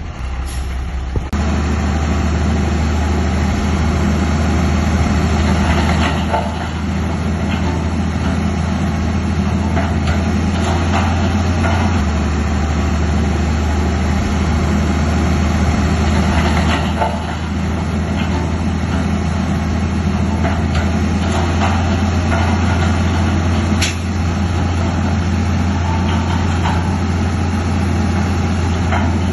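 Heavy diesel engine of a bulldozer running steadily while it works, with a few short clanks spread through.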